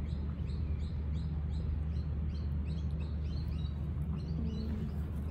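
Small birds chirping in short, high, falling notes, about two or three a second, over a low steady rumble.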